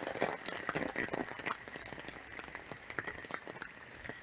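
Heavy rain falling: a steady hiss with individual drops ticking irregularly on nearby surfaces.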